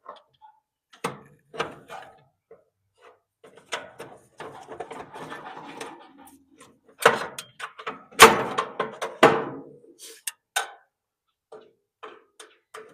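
Irregular knocks, clanks and scraping of hand tools against the sheet-metal parts of an electric clothes dryer being dismantled for scrap. There is a stretch of scraping about four to six seconds in, and the loudest hits come around seven and eight seconds in.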